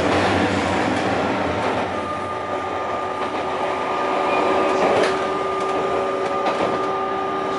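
JR Kyushu 817 series electric train running along the track, heard from the cab: a steady rumble of wheels on rail. A steady whine of a few tones comes in about two seconds in, and there is a single sharp tick about five seconds in.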